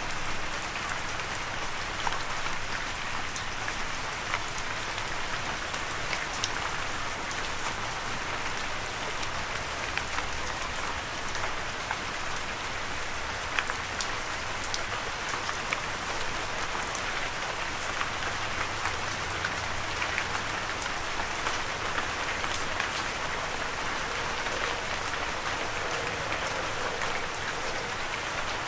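Steady rain falling on a surface, a constant hiss with many separate drops ticking sharply throughout.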